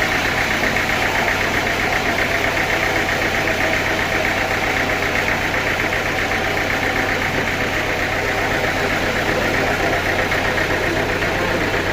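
Sawmill engine running steadily with a fast, even pulse.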